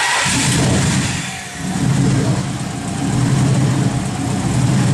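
Twin-turbo Nissan VH45 V8 in an R31 Skyline running, with its rear exhaust pipes off. The note dips about a second and a half in and picks back up.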